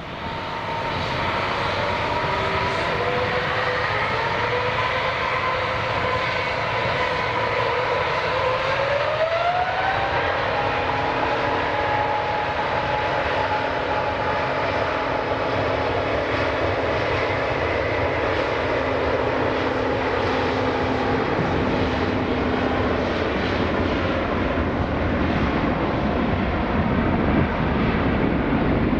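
Jet airliner engines running loud and steady, with a whine that rises in pitch about nine seconds in as the engines spool up, then holds.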